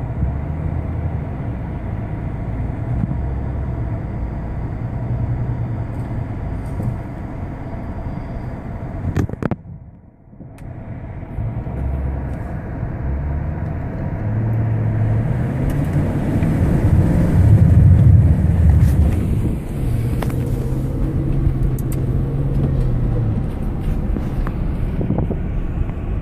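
Car engine running with a low note that steps up and down, as a car drives through a flooded street. The sound drops out sharply about ten seconds in, then returns and grows louder with a rising hiss.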